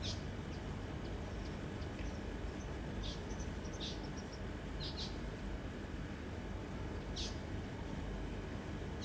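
Bird calling with short, high chirps every second or so, over steady low background noise.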